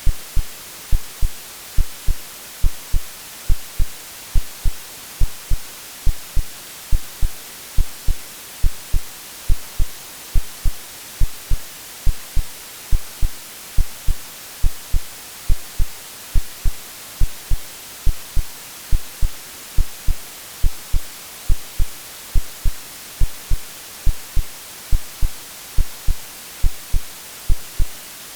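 Synthetic heartbeat of short, low thumps in a steady, even rhythm, layered over a constant white-noise hiss, made to imitate the sounds a baby hears in the womb.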